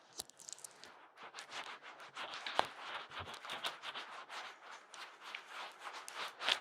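Fingers rubbing and scratching close against a microphone in an ASMR ear massage: a dense run of crackling scrapes and small taps.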